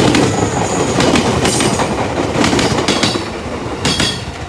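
Fujikyu line electric train passing close by at speed, its wheels clacking over the rail joints. It is loudest as it first goes by, then eases off slightly.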